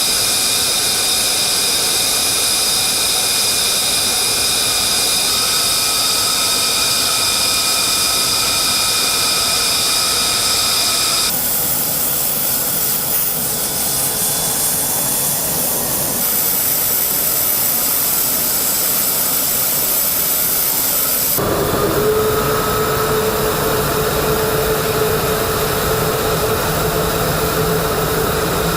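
F-35A Lightning II's Pratt & Whitney F135 turbofan engine running, a steady loud jet noise with high whining tones. The sound changes abruptly three times.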